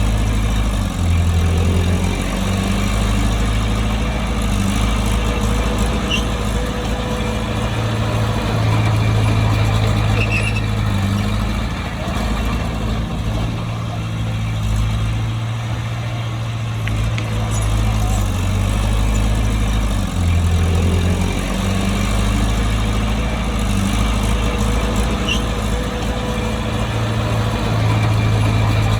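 Bulldozer diesel engine running steadily under working load, its low note stepping up and down every few seconds as the load changes.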